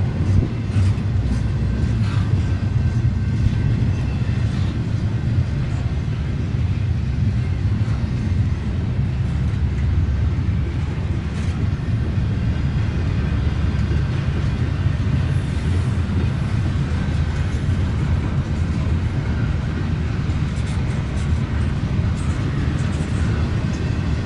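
Double-stack intermodal freight cars rolling past on the rails: a steady low rumble of wheels on track, with a few short clicks and clanks.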